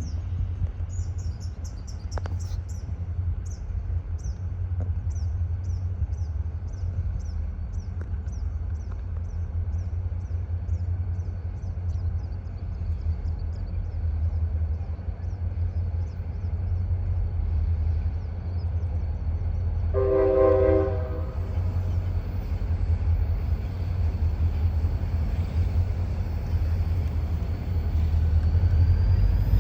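A passing train rumbling steadily, with one short horn blast about two-thirds of the way in. A series of faint high chirps fades out in the first half.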